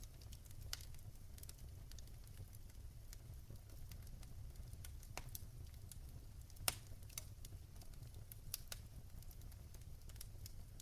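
Wood fire crackling: irregular sharp pops and snaps, one louder pop about two-thirds of the way through, over a faint low rumble.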